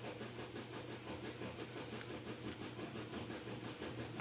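A steady low hum with a faint, even hiss underneath: background room noise.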